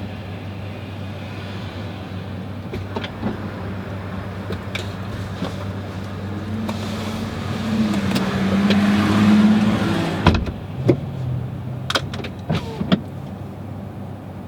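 Road and tyre noise inside the cabin of a 2018 Tesla Model X driving on the freeway, a steady low hum with no engine sound. About seven seconds in the rushing grows louder for a few seconds, then several sharp clicks come near the end.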